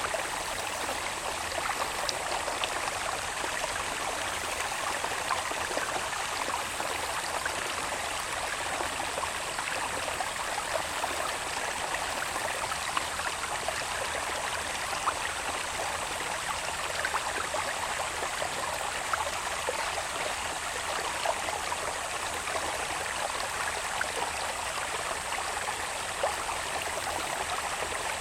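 Small irrigation channel of running water babbling and trickling steadily. Under it runs a thin, steady, high-pitched drone of insects.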